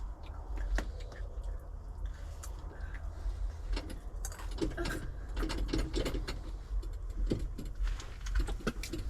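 Irregular small clicks, rattles and knocks of fishing gear being handled, growing busier about halfway through, over a steady low rumble.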